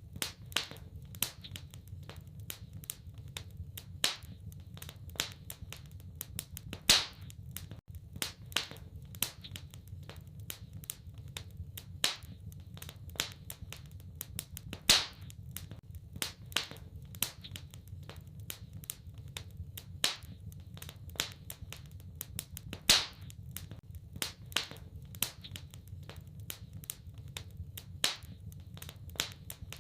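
Wood fire crackling in a fireplace: irregular sharp pops and snaps, a few a second, with now and then a louder crack, over a low steady rumble.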